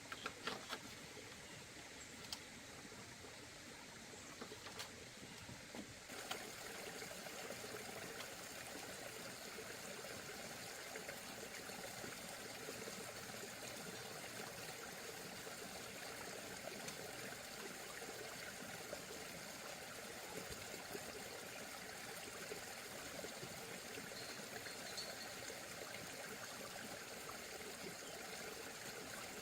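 Faint, steady rushing noise like running water. A few light clicks sound over it at first, and about six seconds in it steps up suddenly to a fuller, even hiss.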